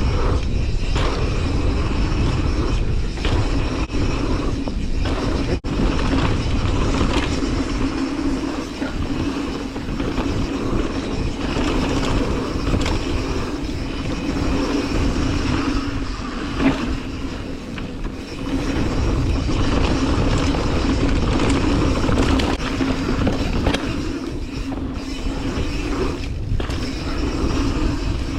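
Mountain bike rolling down a dirt trail: tyre noise with a steady rattle of chain and frame over the bumps, and wind buffeting the helmet camera's microphone.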